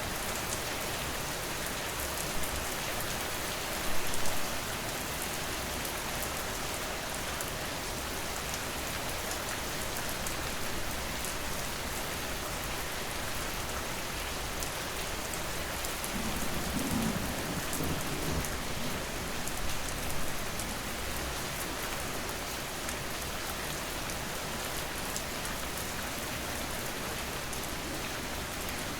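Steady heavy rain falling, an even hiss with fine drop ticks. A brief louder spatter comes about four seconds in, and a low rumble swells for a few seconds past the middle.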